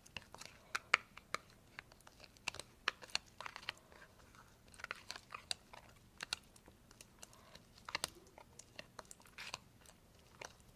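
Glue-and-borax slime being stirred: an irregular run of short wet squelches and clicks, several a second.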